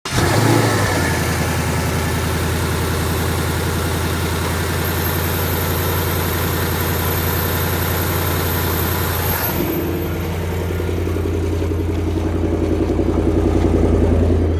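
2018 Ford Mustang GT's 5.0 L Coyote V8 starting and flaring briefly, then settling into a steady idle.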